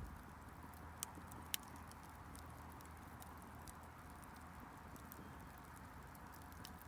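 Wood fire burning faintly with scattered crackles, and two sharper pops about a second in and half a second later.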